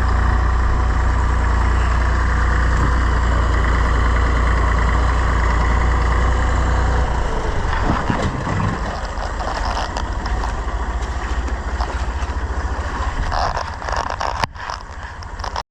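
The engine of a Volvo BM Buster 320 tractor running hard under load while it works the bucket. The steady heavy engine note changes about halfway through, becoming lower and less even, with a few knocks.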